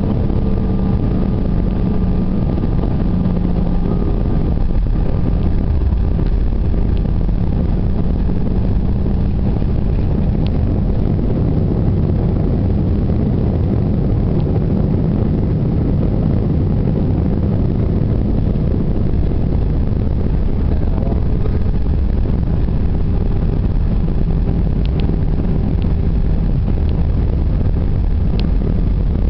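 Steady cabin noise of an Airbus A319 heard from inside the cabin: a continuous low engine rumble with faint steady hums over it.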